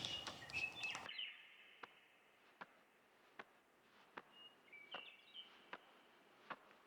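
Faint wild bird calls: short high chirping whistles near the start and again about five seconds in. Faint sharp ticks repeat a little more than once a second between them.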